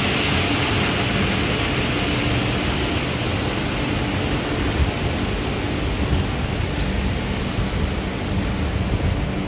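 LHB passenger coaches rolling past at speed: a steady rush of wheel and rail noise, with a few brief knocks from about five seconds in.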